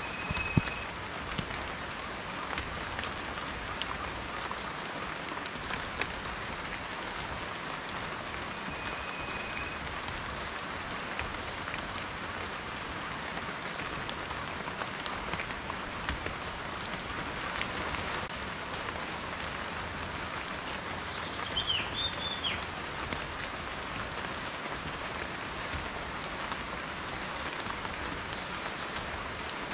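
Steady rain falling on a surface, an even hiss with individual drops ticking through it. A bird gives a few short, high calls, the clearest about two-thirds of the way through.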